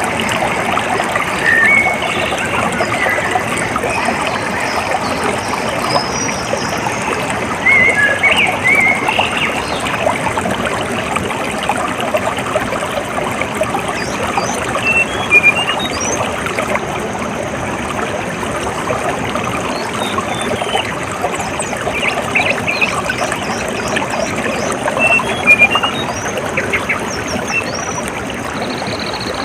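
Steady trickling, flowing water, with birds chirping now and then over it in short calls.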